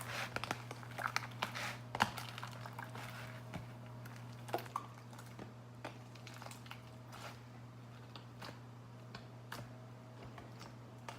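Glitter slime being squeezed and worked by hand close to the microphone, giving faint, irregular crunching crackles from the sparkles mixed into it.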